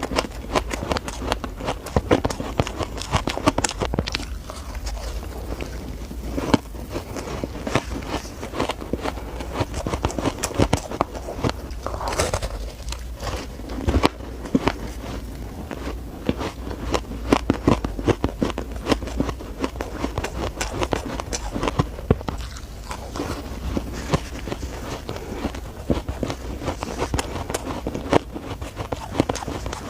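A person biting and chewing shaved ice close to the microphone: a dense, irregular run of squeaky crunches and crackles.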